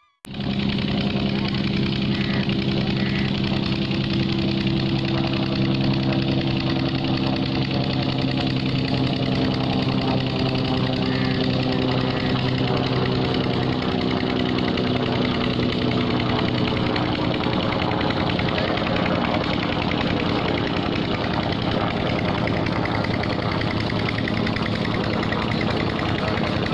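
Helicopter running steadily: a loud, constant engine-and-rotor drone at an even level, cutting in suddenly after the music.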